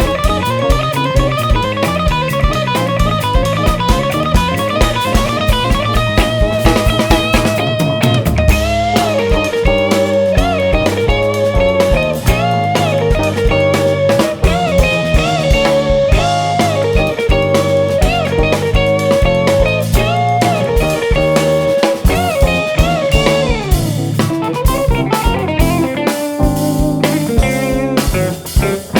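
Live jazz-fusion band playing, with electric guitar over drum kit. A fast, repeating rising guitar figure runs for the first several seconds, then gives way to a sustained lead melody over steady drums.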